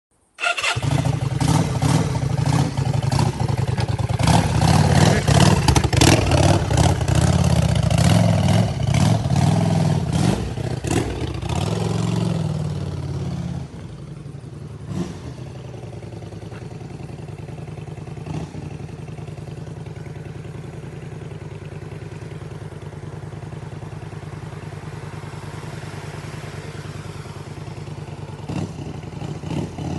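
Yamaha XV535 Virago's V-twin running through a Silvertail K02 aftermarket exhaust, blipped repeatedly for the first dozen or so seconds, then dropping to a steady idle with an occasional short blip.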